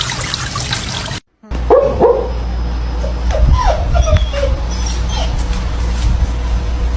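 A dog making a series of short yips and whines in several bursts, starting just after a brief dropout about a second in.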